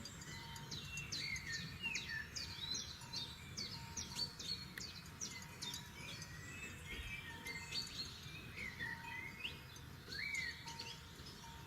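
Several forest birds singing and chirping at once, a busy mix of short sweeping notes and quick trills, over a low steady rumble of background noise.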